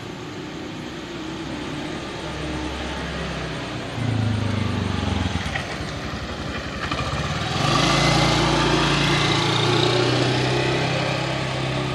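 Motor vehicles passing on a street. One engine comes in about four seconds in and drops in pitch as it goes by; a louder vehicle passes from about eight seconds in, its engine note holding steady with tyre and road noise.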